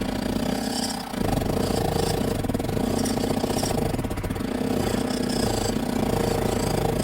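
Motor of a DIY mini model tractor running steadily, with a brief dip about a second in.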